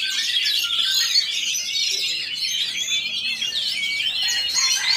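Many caged songbirds at a songbird contest singing over one another: a dense, unbroken chorus of overlapping chirps, trills and short whistles.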